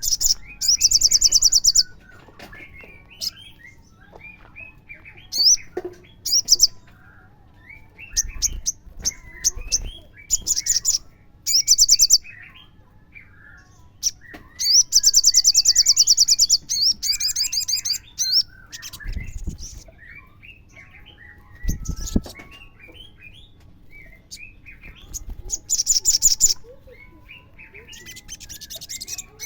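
Olive-backed sunbird song: loud, very high, rapid trills lasting a second or two, repeated several times, with softer twittering chirps between them.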